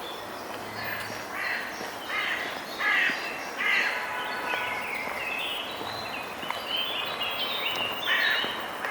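Crows cawing, a run of harsh calls repeated several times, loudest about three and four seconds in and again near the end, over a steady background hum.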